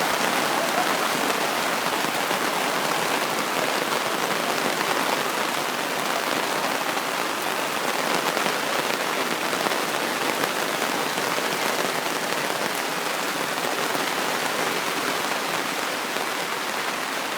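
Heavy rain pouring down steadily, a dense even hiss of many drops.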